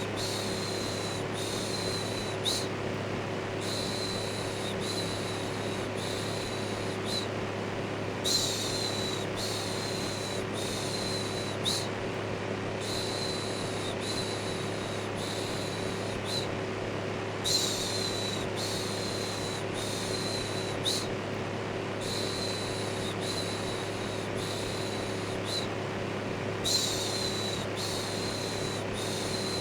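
Electric fan running with a steady hum, overlaid by rhythmic 'shhh' shushing in runs of four or five short shushes with brief pauses between runs, a looped soothing white-noise track for calming a baby.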